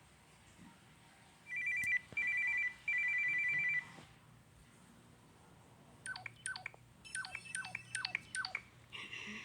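Samsung Corby mobile phone playing ringtones: a trilling, telephone-style ring in three short bursts, then after a pause a run of quick falling chirps.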